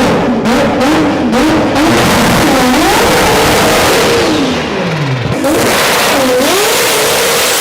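Rotary engine revving hard in a burnout, its pitch swinging up and down again and again over a loud raspy exhaust and tyre noise.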